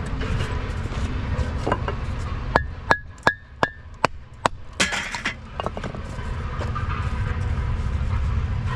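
Hammer blows: a quick run of about seven sharp strikes over two seconds, several of them ringing, followed by a louder clatter, over a steady low rumble.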